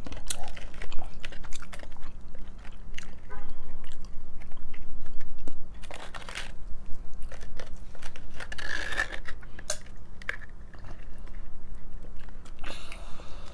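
Close-up chewing and crunching of hard-shell tacos, a run of short sharp crunches with a few longer, louder crunching spells.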